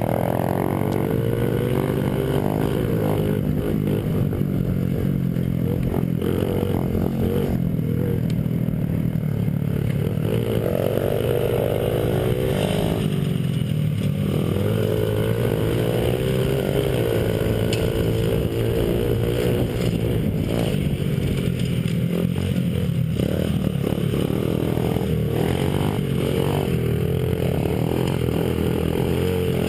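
Small single-cylinder four-stroke Honda 50cc pit bike engine running hard, its pitch climbing and dropping again and again as the throttle is worked, with some rattle and clatter underneath.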